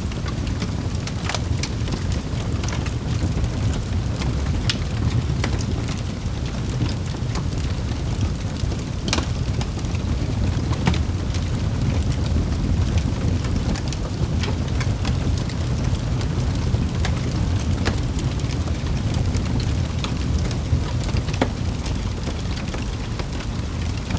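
Wood fire crackling in a fireplace: a steady low rumble of the flames with sharp pops and snaps at irregular intervals.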